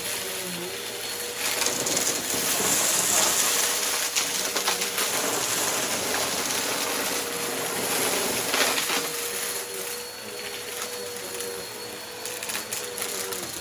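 Bissell upright vacuum cleaner running over a rug, with a steady motor hum and scattered crunching and crackling as dry debris is sucked up.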